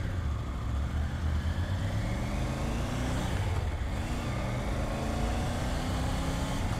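Triumph Tiger 900 GT Pro's three-cylinder engine running under way, its note climbing slowly as the bike gains speed, with a brief bend in pitch about four seconds in. Steady wind and road rush is heard with it.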